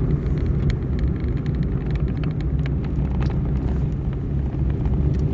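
Steady low rumble of vehicle noise, with scattered faint clicks.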